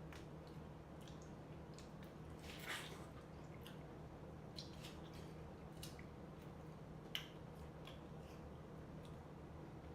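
Close-up wet eating sounds: soft squishy chewing and small mouth clicks, with a brief louder squelch about three seconds in and a sharp click about seven seconds in.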